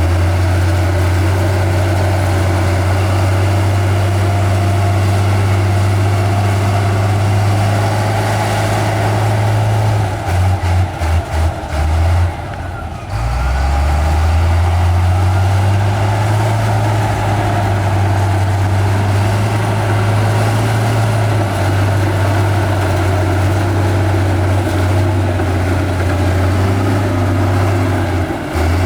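Diesel engine of heavy earthmoving machinery running with a deep, steady drone. About ten seconds in it falters and dips for a couple of seconds, then rises back up and runs steadily again.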